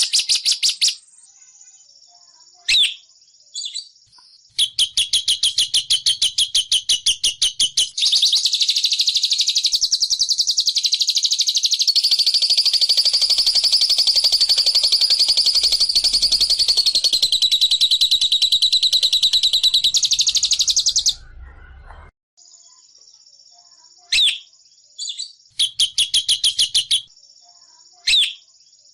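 Lovebird chattering in rapid, high, repeated chirps. In the middle comes one long unbroken trill lasting about thirteen seconds: the drawn-out 'ngekek' song that bird keepers play to lure silent lovebirds into singing. Shorter chirp bursts come before and after it.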